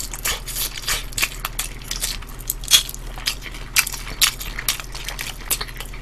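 Close-up chewing and crunching of crispy fried chicken, a quick, irregular run of crunches, the loudest a little under three seconds in.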